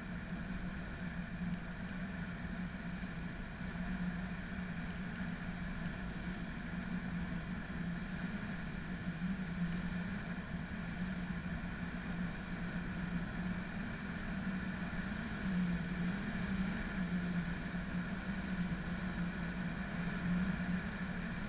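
Motorcycle engine running at a steady speed while riding, with a continuous hum that wavers slightly in pitch over wind and road noise.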